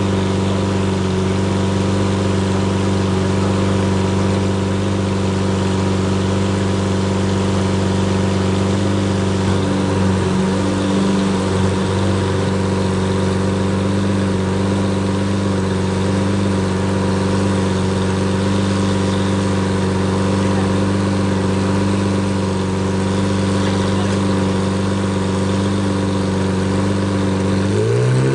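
Lamborghini Murciélago LP640's V12 engine idling steadily at low speed, with a short rise in revs near the end.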